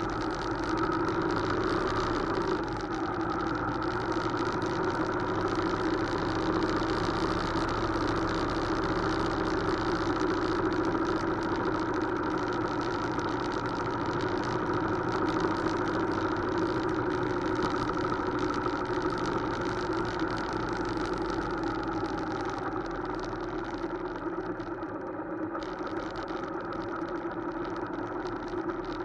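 Motorcycle engine running at a steady, unchanging speed, with a hiss of wind or road noise behind it; it eases off slightly in the last few seconds.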